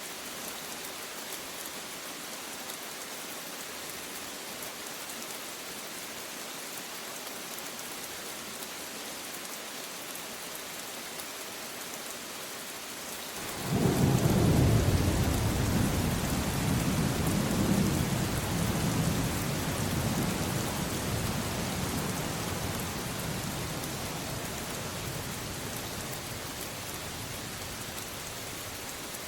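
Steady rainfall, then about halfway through a deep roll of thunder breaks in suddenly, rumbles loudest for a few seconds and slowly dies away under the rain.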